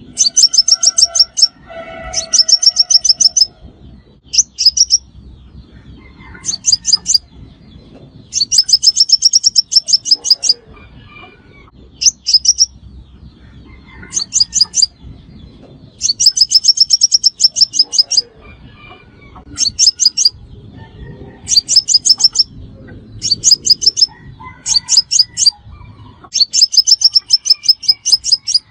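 Sunbird song: repeated bursts of rapid, high-pitched twittering trills, each lasting up to about two seconds, with short pauses between them.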